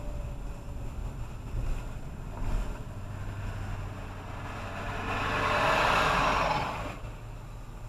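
Steady low road rumble of a car being driven, heard from inside, with a louder rushing swell that builds and fades over about two seconds near the end.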